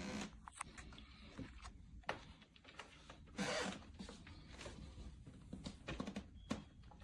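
Faint scattered clicks and light knocks, with a brief rustle about three and a half seconds in, from something being handled.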